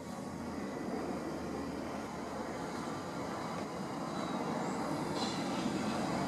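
Class 458 electric multiple unit running into the platform, its noise growing steadily louder as it approaches.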